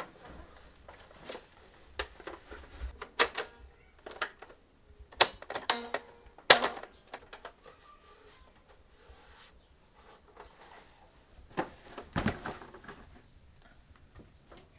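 Irregular clicks and knocks of things being handled, in loose clusters: a run of sharp ones between about two and seven seconds in, the loudest near six and a half seconds, and another cluster around twelve seconds.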